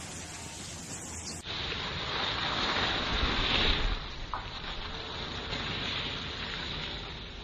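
Rushing noise of skiing: wind and skis sliding over snow. It changes abruptly about a second and a half in, swells to its loudest around three to four seconds, then drops back.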